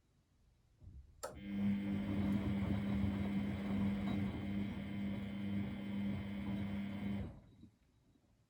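Miele Novotronic W921 washing machine running: a click about a second in, then a steady mechanical hum for about six seconds that stops abruptly.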